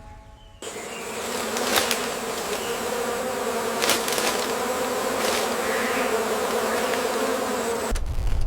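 A steady buzzing sound that starts abruptly about half a second in and cuts off just before the end, with a few sharp clicks along the way.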